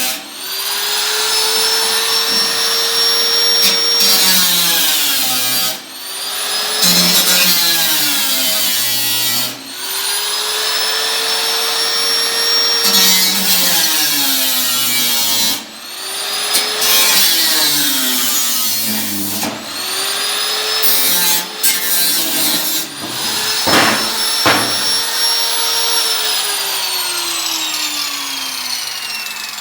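Electric power tool's motor running in about seven bursts of a few seconds. Each burst spins up quickly to a steady whine, then sags or drops off. The last one winds down slowly in pitch near the end.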